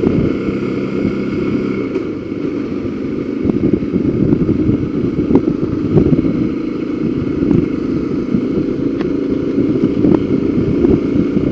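Motorcycle engine running steadily while riding along, under a constant rush of road and wind noise.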